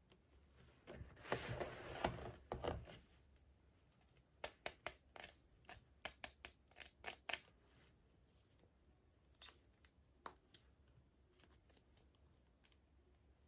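Toy packaging being opened by hand: a rustling, tearing burst about a second in, then a quick run of sharp clicks and snips, with a few more scattered clicks later.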